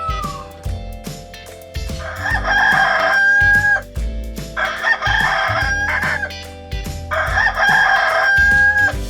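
Rooster crowing three times, each crow a few seconds long and ending on a held high note, over background music with a steady beat.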